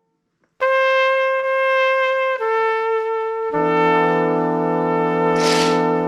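Brass instruments playing long held notes as music. A single high note steps down, then lower brass join in a full sustained chord that begins to fade near the end.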